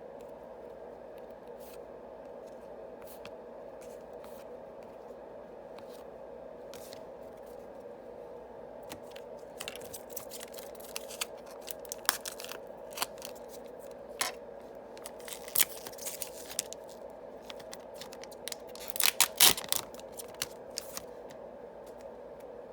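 Foil booster packs of trading cards being torn open and handled, crinkling and tearing. It starts with a few small clicks, then turns into a dense run of rustling and tearing from about nine seconds in that is loudest near the end. A steady low hum runs underneath.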